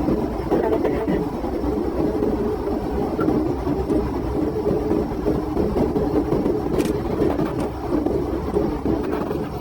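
Steady rumbling road, tyre and engine noise of a police patrol car driven flat out at highway speed, picked up by its dash camera.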